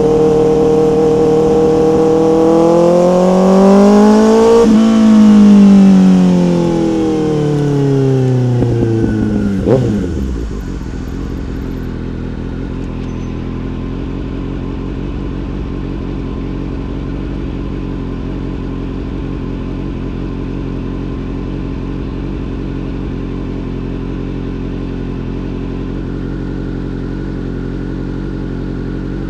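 Motorcycle engine revving, its pitch climbing to a peak about five seconds in and falling away over the next five. Near ten seconds it settles into a steady idle for the rest.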